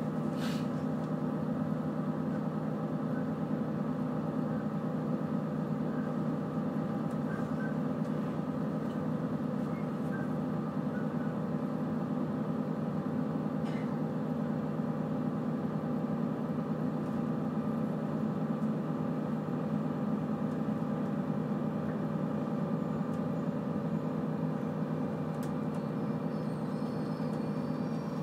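Passenger train running, heard from inside the carriage: a steady rumble with a steady multi-tone hum. A sharp click comes about half a second in, and faint high-pitched tones join near the end as the train enters a station.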